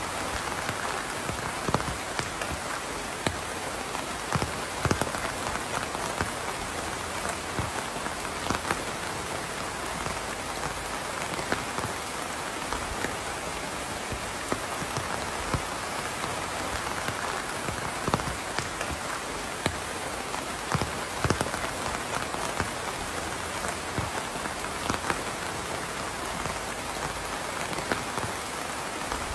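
Steady rain falling on a surface: a constant hiss with irregular, sharper strikes of individual drops.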